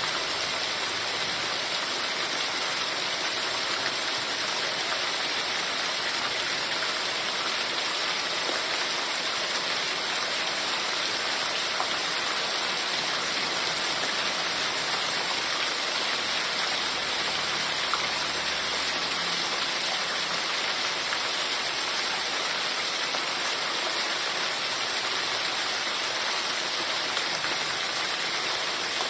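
Heavy rain falling, a steady, even hiss without breaks.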